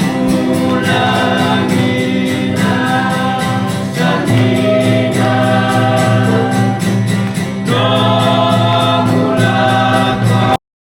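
Group of voices singing together in choir style over a steady beat of about four strokes a second, cutting off abruptly near the end.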